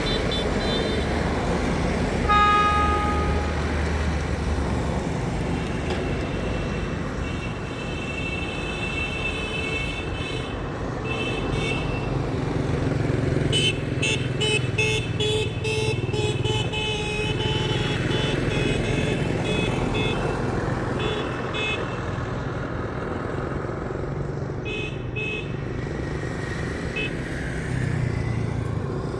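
Road traffic with trucks running by, a steady engine rumble and road noise, and a vehicle horn tooting briefly about two seconds in.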